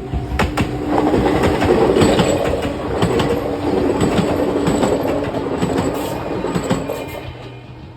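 An Enoshima Electric Railway (Enoden) electric train passing over a level crossing, its wheels clicking over the rail joints, building up about a second in and fading near the end. The crossing's warning bell rings steadily behind it.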